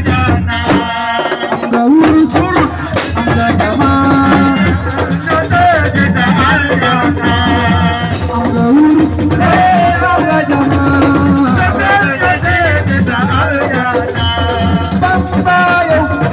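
Loud assiko band music: a shaker rattles over a steady low beat, with a wavering melody line above it.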